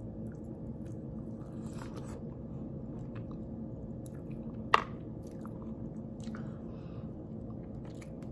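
A person biting and chewing barbecue-sauced rib tip meat, with small wet mouth clicks over a steady low hum. A single sharp click near the middle is the loudest sound.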